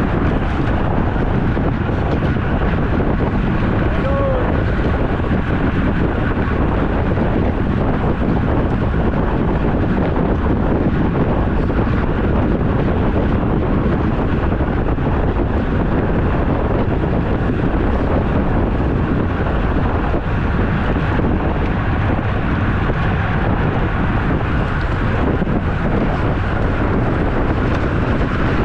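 Wind rushing over the microphone of a camera riding on a moving road bicycle: a loud, steady rush of noise that barely changes.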